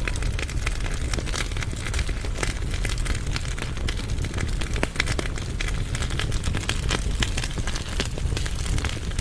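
Firewood burning in a fireplace firebox: constant crackling with many sharp pops over a low rumble of the flames.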